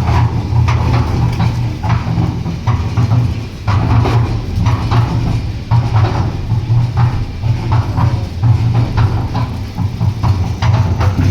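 Engine of a concrete mixer with hydraulic loader running steadily, with a pulsing low drone and frequent irregular clattering and knocking over it.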